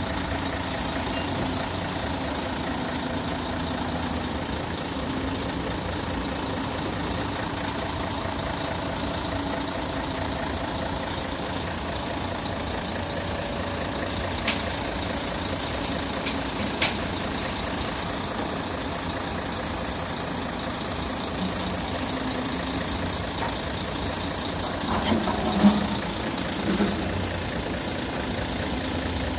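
Heavy diesel earthmoving machinery running steadily, with a few sharp metallic knocks and a short louder stretch of knocking near the end.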